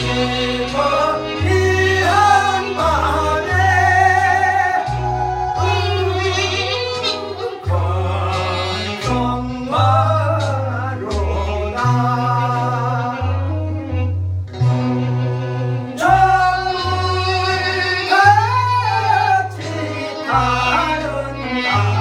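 A singer performing a song with instrumental backing, the voice held on long notes with strong vibrato over a bass line that steps from note to note.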